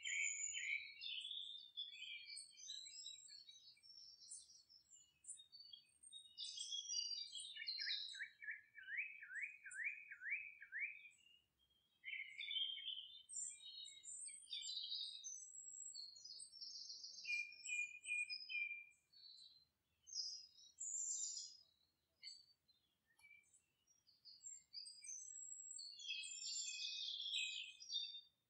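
Birds chirping and singing: many short, high, varied notes in phrases, with a run of quick repeated downward-sweeping notes about a third of the way through.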